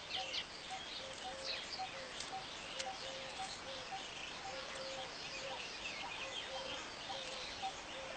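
Weaverbirds chirping and twittering in short high calls, over a steady background of a low two-note call repeating about twice a second.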